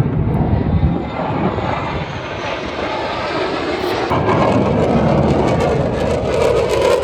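Airplane engine roar as an aircraft passes, growing louder and rougher about halfway through.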